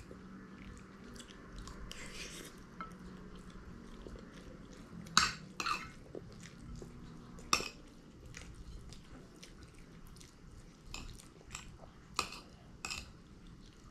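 A person chewing a mouthful of food, with a metal spoon clinking against a ceramic bowl now and then as he scoops more: a few sharp clinks around the middle and near the end.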